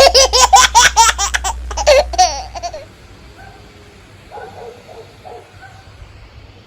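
A baby laughing in quick, loud, repeated bursts for a little under three seconds, then stopping, followed by faint short high-pitched whimpers.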